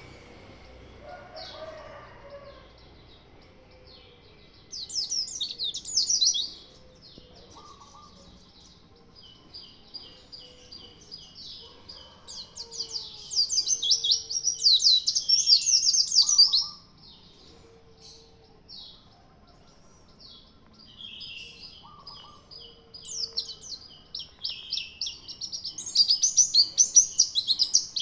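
A white-eye (pleci) in full song: a fast, high, chattering twitter. It comes in loud bursts about five seconds in, from about 13 to 16 seconds, and again near the end, with softer twittering between.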